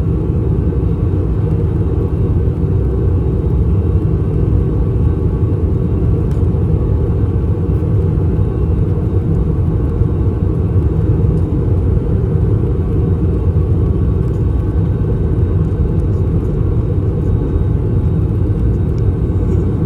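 Steady cabin noise inside an Airbus A321 airliner in descent: a loud, even rumble of airflow and the jet engines, unchanging throughout.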